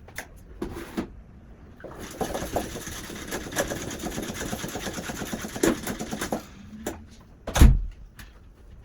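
Rapid, scratchy scrubbing of a wet kitchen floor for about four seconds, then a single loud thump near the end.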